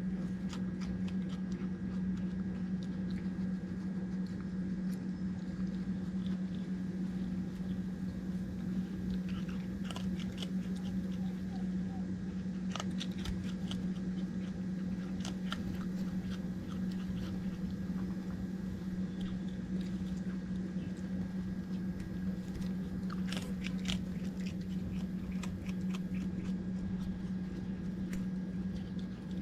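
Raccoon chewing and crunching food, with bursts of crunches about ten seconds in and again near the end, over a steady low hum.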